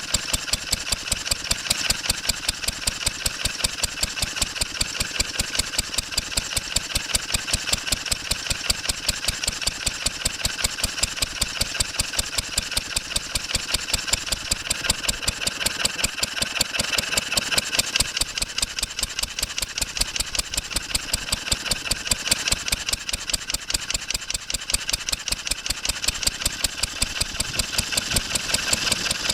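1954 Wolseley WD8 single-cylinder stationary engine running steadily, its firing strokes in an even rhythm.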